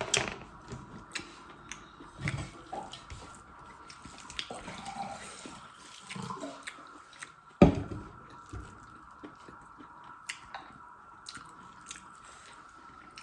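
Close-up eating sounds: wet chewing and mouth noises with scattered small clicks, and one sharp knock about seven and a half seconds in. A faint steady high hum sits underneath.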